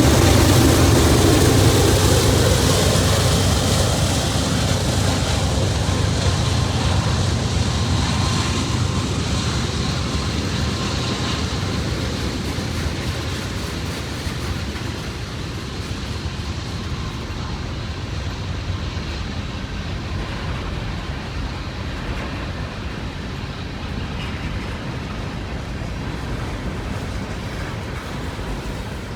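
Union Pacific diesel locomotives hauling a long freight train past, their engine rumble loudest at first and fading steadily as they move away, leaving the steady rolling noise of the freight cars.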